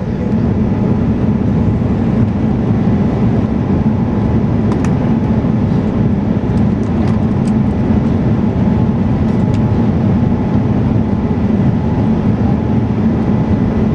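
Steady low rumble of airflow and engine noise inside the cabin of a Boeing 787-9 airliner descending to land, with a few faint clicks in the middle.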